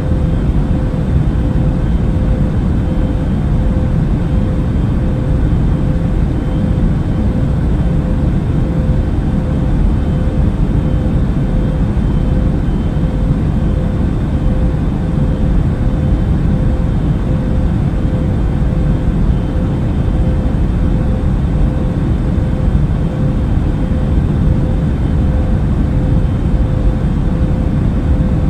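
Steady airliner cabin noise in flight: a low, even rumble of engines and rushing air, with a faint steady hum above it.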